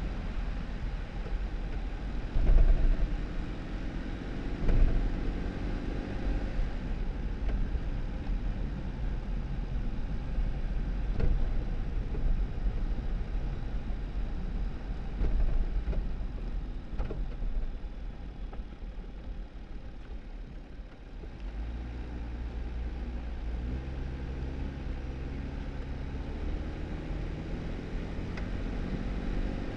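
2018 Jeep Wrangler driving a snow-covered dirt road: low engine drone and tyre noise, with several knocks from bumps, the loudest about two and a half and five seconds in. About two-thirds through, the engine note grows steadier and stronger.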